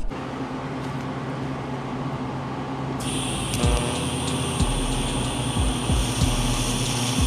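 A steady electrical hum; about three seconds in, a TIG welding arc strikes and runs with a steady hiss and high-pitched buzz while silicone bronze filler rod is fed into the steel seam. A few low thumps sound while the arc is running.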